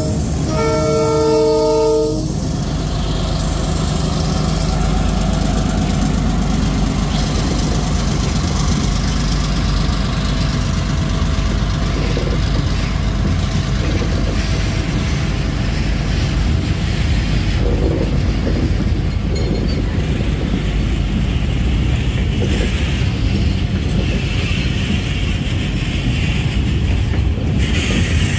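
EMD GR12W diesel locomotive's horn sounding a blast that ends about two seconds in. After it comes the steady low rumble of a freight train of loaded grain wagons rolling past.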